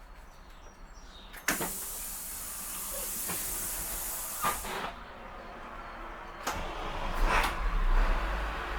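A sudden sharp hiss of air about a second and a half in, lasting about three seconds, then the school bus's diesel engine cranking and starting near the end, settling into a low rumble.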